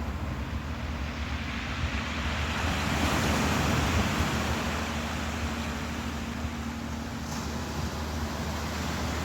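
Ocean waves washing in a steady hiss that swells about two seconds in and then eases back, over a constant low rumble.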